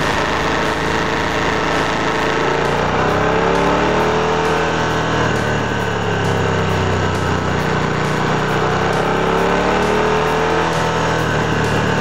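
Moto Guzzi Griso 1100's transverse V-twin engine running under way, its pitch rising and falling twice as the rider works the throttle through the curves, with wind rush over the microphone.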